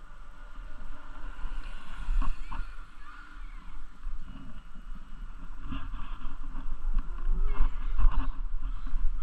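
Wind rumbling on the microphone while riding a bicycle, over a steady outdoor hiss, with scattered light knocks and rattles that come more often in the second half.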